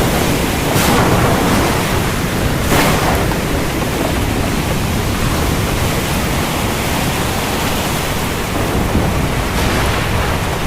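Heavy rain falling steadily, with a low rumble of thunder underneath and two brief sharper swells about one and three seconds in.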